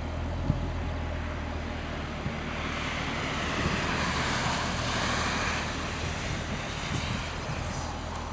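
Jaguar XKR-S's supercharged 5.0-litre V8 idling steadily at a standstill. A broad rushing sound swells up a few seconds in and fades away again, as if something is passing by.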